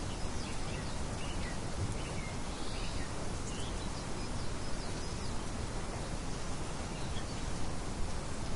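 Steady wind noise with faint, scattered bird chirps, most of them in the first half.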